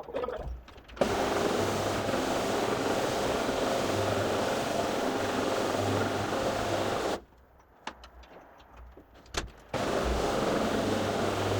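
A carpet-cleaning vacuum motor switches on about a second in and runs steadily with a low hum. It cuts off suddenly after about six seconds, leaving a few light clicks, and starts up again about two and a half seconds later.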